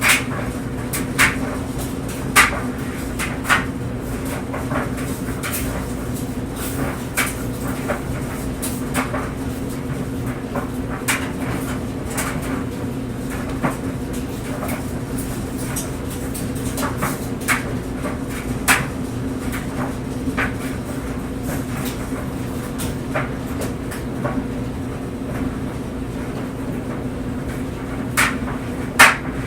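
Clothes dryer running: a steady motor and drum hum with clothes tumbling inside, giving irregular light knocks against the drum, a few louder ones near the start and near the end.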